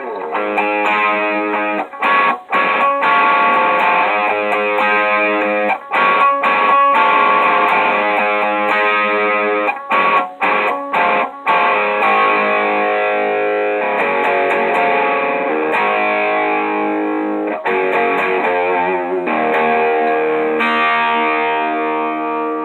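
Electric guitar played through an Electro-Harmonix Screaming Bird treble booster set at about two o'clock, strummed chords with a crunchy, bright distortion. The chords are cut short a few times with quick stops, and the playing ends on a long held chord that slowly fades.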